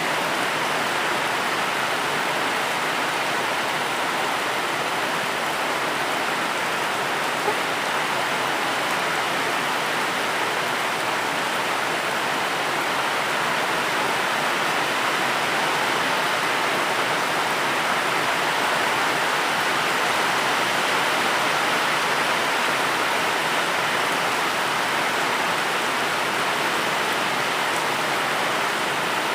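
Steady rain falling as an even, unbroken hiss, with one brief tick about seven seconds in.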